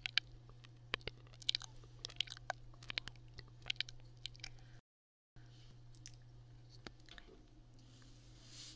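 Close-microphone ASMR crackling: many quick, crisp clicks and crackles, dense at first, cutting out completely for a moment about halfway, then sparser. A steady low hum runs underneath, and a faint whisper comes in near the end.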